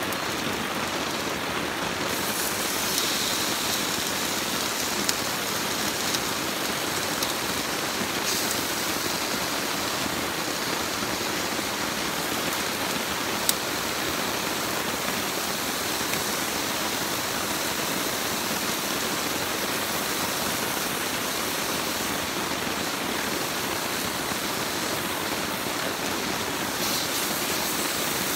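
Steady rain falling, a dense even hiss with a few single sharp drip ticks.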